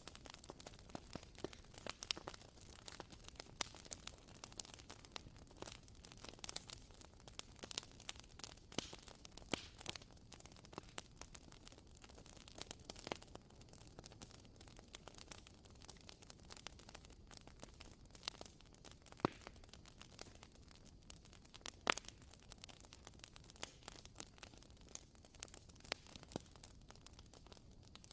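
Wooden candle wick crackling, a WoodWick candle giving irregular soft pops and ticks like a small campfire.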